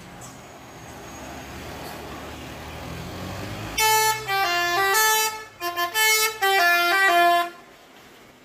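A bus engine running as it draws near, then its multi-tone "telolet" horn plays a loud tune of stepped notes for about three and a half seconds, with a short break in the middle.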